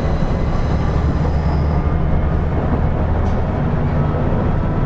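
Running noise inside a JR KiHa 110 series diesel railcar under way: a steady low rumble of the diesel engine and wheels on the rails. The engine's drone changes note about three and a half seconds in.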